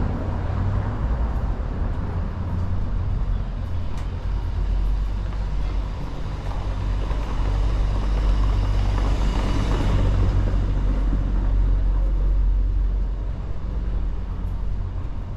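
Street traffic: a vehicle's engine rumbling low and close, growing louder around the middle and easing off toward the end, with one sharp tick about four seconds in.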